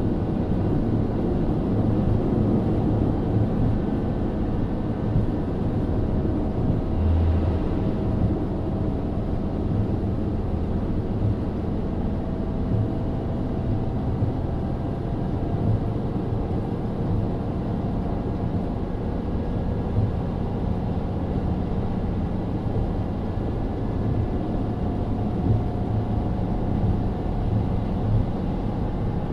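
KiHa 40 diesel railcar under way: the steady drone of its N-DMF13HZB six-cylinder diesel engine mixed with wheel-on-rail rumble, with a low thud about seven seconds in and the engine note rising slowly through the middle.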